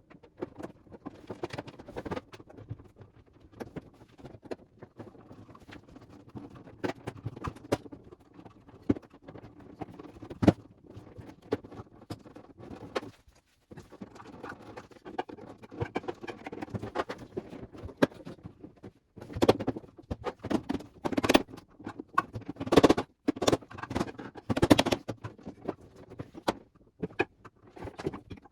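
Irregular clicks, knocks and scuffing of refrigerator parts being handled and fitted back into place, busiest and loudest about two-thirds of the way through.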